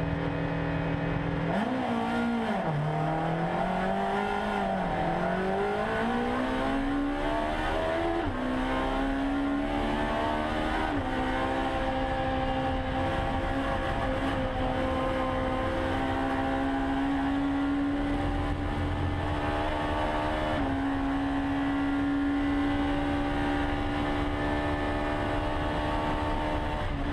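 Car engine revving up and down, then pulling through two upshifts, each a climb in pitch cut by a sudden drop at the shift, about eight and eleven seconds in. After that it holds a nearly steady pitch, as at a cruising speed.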